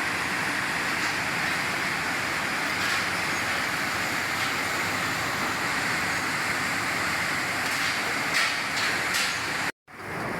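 Steady running noise of rope-making factory machinery, an even whirring hiss with a few faint ticks near the end. It cuts out abruptly for a moment just before the end.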